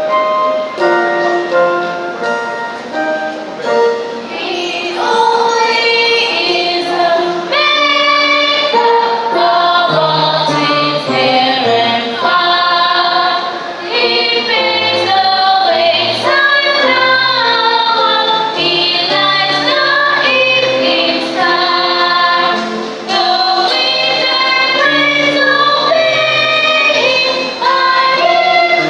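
A choir singing a gospel song with instrumental accompaniment; a bass line joins about ten seconds in.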